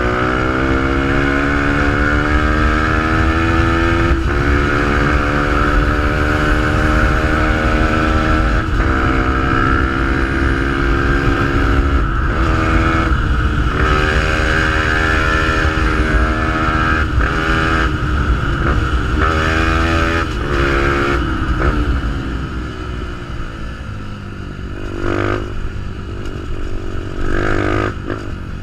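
Fantic 125 supermotard engine breathing through a GPR exhaust, ridden hard. The engine pitch climbs and breaks at each gear change, several times over the first twenty seconds. It then eases off to a lower, quieter note, with two short throttle blips near the end.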